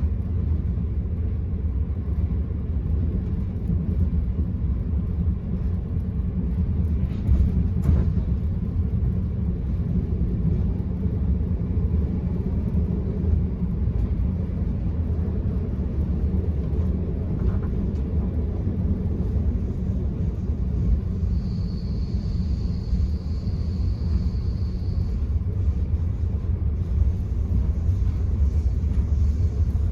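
Steady low rumble of the Enterprise passenger train running along the line, heard from inside a coach. A couple of faint knocks come about a quarter of the way in, and a thin high whine sounds for a few seconds about three-quarters through.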